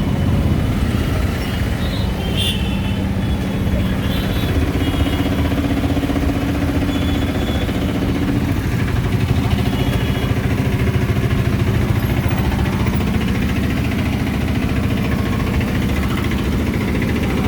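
Motor vehicle engines running in traffic around an open auto-rickshaw, a steady low rumble, with a few faint high tones a few seconds in.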